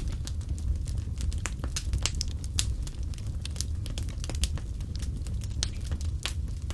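Fireplace wood fire crackling: irregular sharp pops and snaps, several a second, over a steady low rumble.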